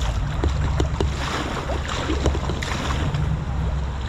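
River water rushing around a kayak, with a heavy low rumble of wind on the microphone and a few short splashes from the paddle.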